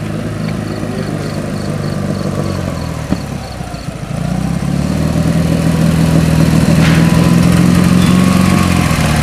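Ural motorcycles' flat-twin engines running at idle, then one bike's engine growing louder and closer from about four seconds in as it pulls up. A faint high beeping repeats about three times a second over the first few seconds.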